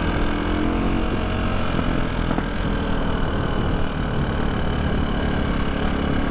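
KTM 450 SX-F's single-cylinder four-stroke engine running at a steady speed while the bike cruises, without revving up or down.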